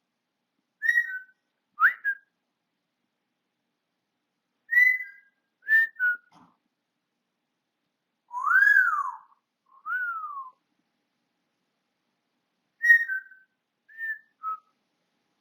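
African grey parrot whistling in short, separate phrases: about eight quick whistled notes, mostly two-note slurs that drop in pitch, with one longer note that rises and falls about halfway through and a falling note just after it, and pauses of one to two seconds between them.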